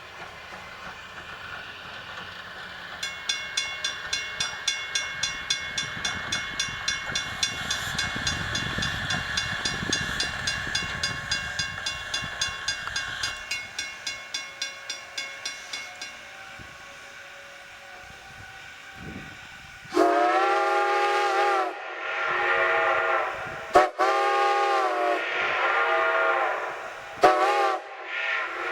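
A bell rings in quick, even strokes over the low rumble of a passing train, then steam locomotive No. 90's multi-note steam whistle sounds a series of blasts, two long ones followed by a longer one and short toots near the end.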